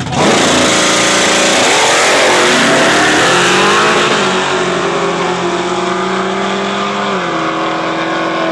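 Two street-racing cars launching hard from a standing start and accelerating away, engines revving high. The sound comes in suddenly and loud, eases as the cars pull away, and the engine pitch steps down once about seven seconds in.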